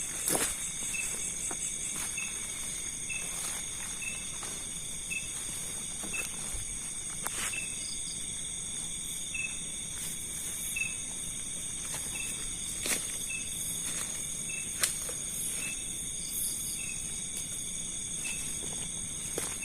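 Night insect chorus: several steady high-pitched shrills together, with a faint short chirp repeating about twice a second. Scattered brief rustles and steps come through the vegetation.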